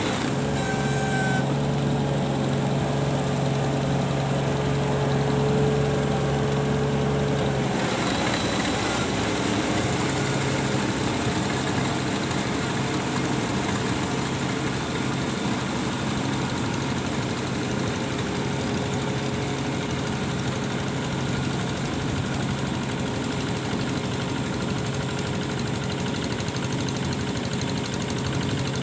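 A small engine running steadily, its note changing about eight seconds in.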